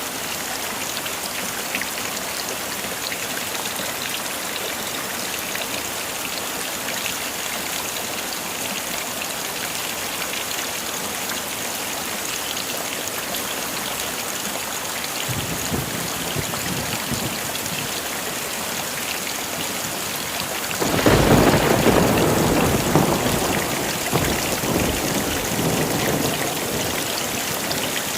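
Heavy rain falling steadily, with thunder. A low rumble begins about halfway through, then a loud thunderclap breaks about three-quarters of the way in and rolls away over several seconds.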